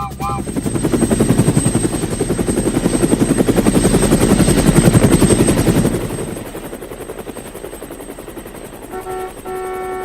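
Cartoon vehicle sound effect: a fast, even chopping of a motor or rotor, swelling louder and then fading away about six seconds in. Near the end comes a short held tone with several pitches, like a horn.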